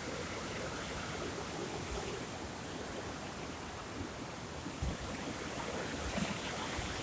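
Steady wash of sea surf with wind, and a few brief low buffets of wind on the microphone about five and six seconds in.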